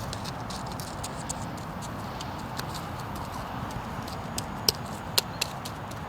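Irregular clicks and knocks of stony soil being dug and worked through while searching a hole for a metal detector target, with two sharper knocks about two-thirds of the way in.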